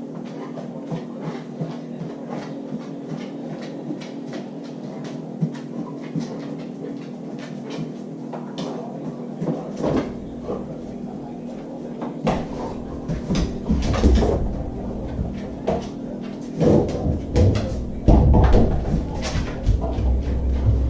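A dog opening a refrigerator door and pulling out a water bottle. Light clicks and taps come first, then louder knocks and thumps from the fridge door and bottle handling in the second half.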